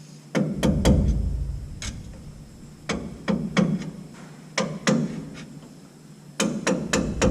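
Hammer tapping a replacement rear differential seal into the axle housing to seat it: sharp knocks in small groups of two or three, then a quicker run of about four taps a second near the end.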